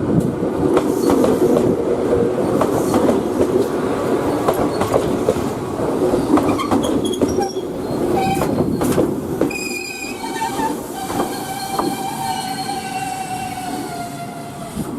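An electric train moving slowly over station track, wheels clicking over rail joints and points with a heavy rumble. From about ten seconds in, a steady high squeal from the wheels or brakes sets in as the rumble fades.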